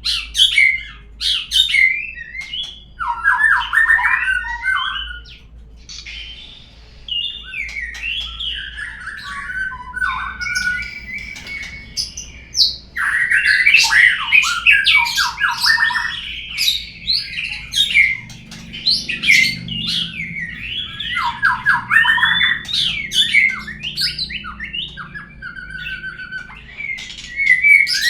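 White-rumped shama (murai batu) song, a lure recording for drawing a murai into song. It is a varied run of whistled phrases, sharp high notes and fast rattling trills, dipping briefly about six seconds in.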